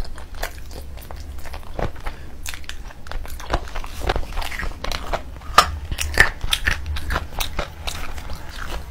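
Close-miked eating sounds: a person biting and chewing curried meat, with irregular wet mouth clicks and smacks.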